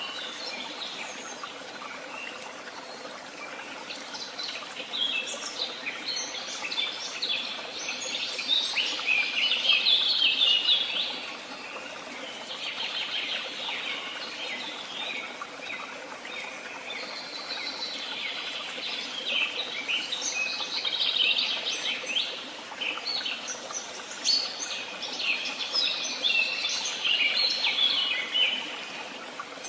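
Songbirds singing in woodland: several phrases of fast, twittering song, each a few seconds long, with short gaps between them, over a faint steady background hiss.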